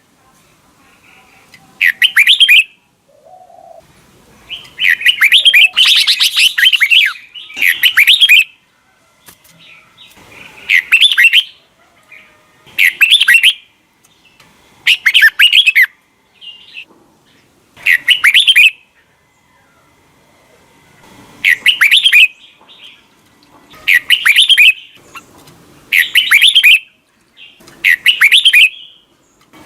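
Red-whiskered bulbul singing: short, loud phrases of about a second, repeated every one to three seconds, with one longer, fuller run around five to seven seconds in.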